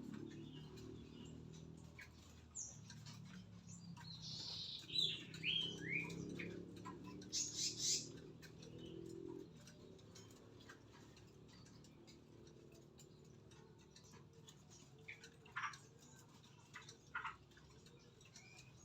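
Small birds chirping: a quick run of short falling notes about four to six seconds in, a brief high burst just after, and a few single calls near the end, over a low background rumble.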